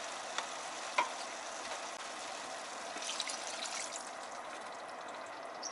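Vegetables and meat sizzling in a stainless-steel pot while a wooden spatula stirs them, knocking against the pot a couple of times in the first second. About three seconds in, water is poured in from a measuring jug, and the sizzle dies down.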